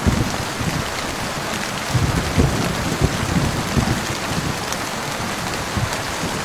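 Steady heavy rain falling on a surface: an even hiss with many irregular low thuds of drops striking.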